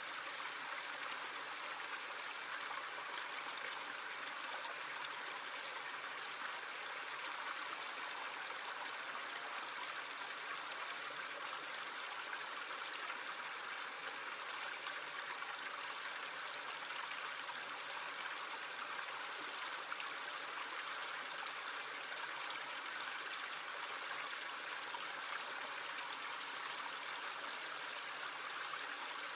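Small stream running and trickling, a steady, even rush of water.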